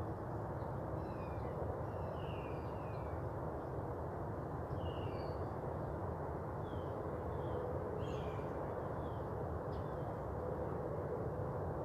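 Birds chirping: scattered short, high chirps every second or so over a steady background rumble.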